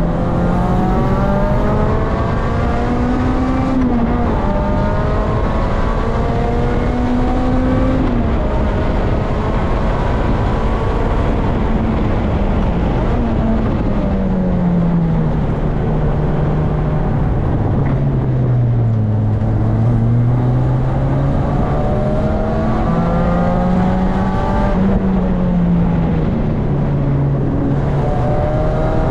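Supercharged 2005 Lotus Elise's 1.8-litre Toyota four-cylinder, heard from inside the cabin under hard driving on track. The engine note climbs with the revs and drops sharply at gear changes about 4 and 8 seconds in, winds down as the car slows in the middle, and climbs again near the end, over steady road and wind noise.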